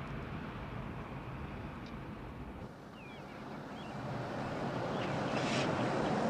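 Steady rushing background noise, like wind or distant traffic, that dips a little midway and swells toward the end, with a few faint short chirps about three seconds in.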